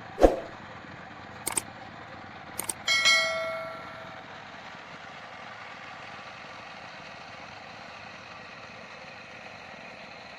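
A knock, a few sharp clicks, then a metal clang about three seconds in that rings out and fades over about a second, over a steady background rumble of noise.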